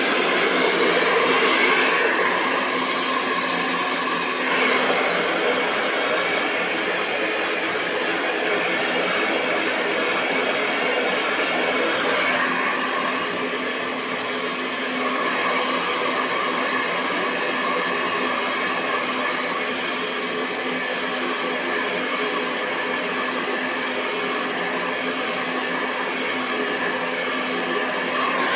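Hair dryer running continuously, a steady rush of air over a low steady hum. The airflow changes slightly in character a few times.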